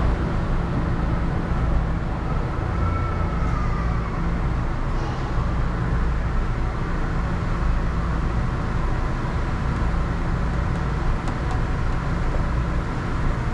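Steady low hum and rumble of an airport people-mover train, with a faint whine rising and falling about three seconds in.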